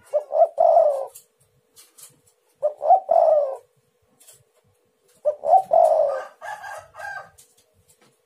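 Spotted dove (tekukur) cooing: three phrases about two and a half seconds apart, each a couple of short notes then a longer falling coo. The third phrase is longer, with extra notes after the main coo. A faint steady hum runs underneath.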